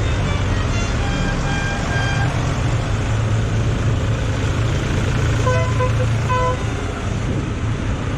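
Tractor engines running steadily as the tractors pass in procession, with short horn toots about a second in and again twice near the six-second mark. The engine rumble eases off near the end.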